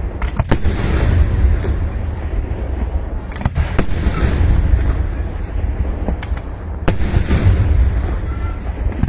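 Fireworks going off: sharp bangs in small clusters about every three seconds, over a steady low rumble.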